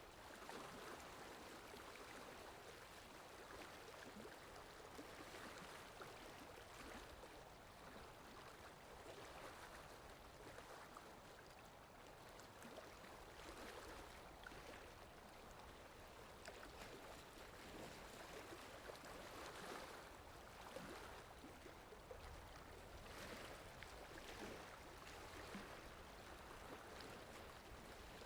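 Faint, steady flowing-water sound effect, like a babbling stream.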